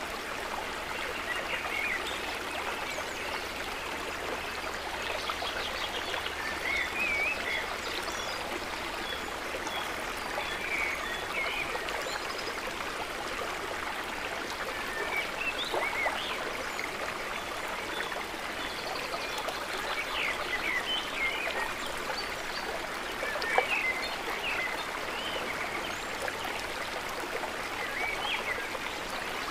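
Calm lake water trickling and gurgling, a steady wash of water sound dotted with small bubbling gurgles, with one brief sharper sound about three quarters of the way through.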